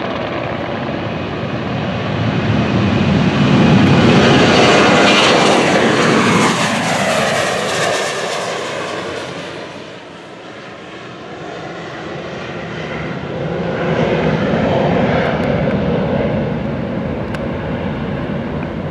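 Boeing 737 jet airliner taking off at full power and passing by. The engine noise builds to a peak a few seconds in, its whine falls in pitch as it passes, dips about halfway through, then swells again before easing off.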